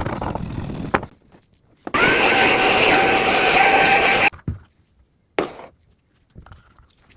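A small power tool runs steadily for about two seconds and cuts off abruptly, after a second of rougher handling noise, with a few sharp clicks after it.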